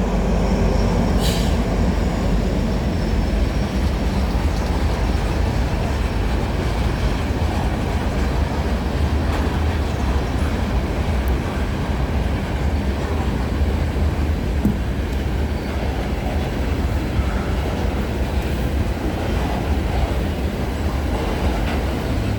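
Freight train cars rolling past at close range: a steady rumble of steel wheels on the rails.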